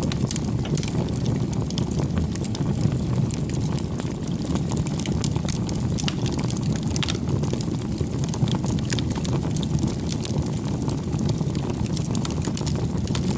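Campfire burning: a steady low rumble of flame with many small, sharp crackles and pops.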